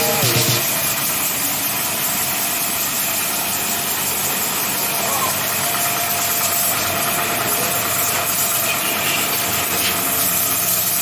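An engine or motor running steadily with an even, hissing noise, and a thin steady tone that joins about five seconds in.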